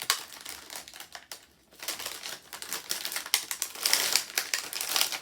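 Plastic snack packaging being handled, crinkling and crackling in quick, irregular clicks, thickest in the second half.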